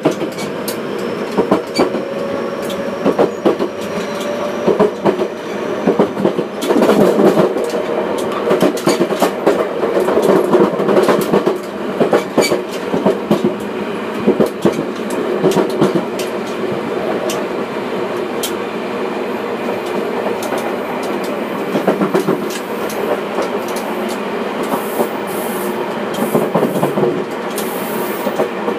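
JR West 207 series 0 electric train running, heard at the gangway between two motor cars: steady wheel and rail noise with frequent clicks and knocks, including the clatter of the gangway's steel plates. A faint whine rises slowly over the first few seconds.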